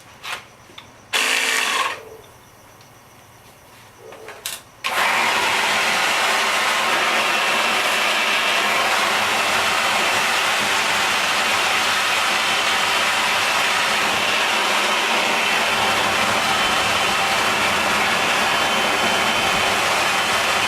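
Homemade lighter-fluid thermojet built from a tin can being lit: a few short pops and a brief rush of noise, then about five seconds in it catches and runs with a steady, loud rushing noise.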